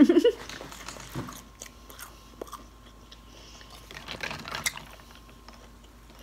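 A person chewing a fried shrimp egg roll: crisp crunches and wet mouth clicks, coming more thickly about four seconds in.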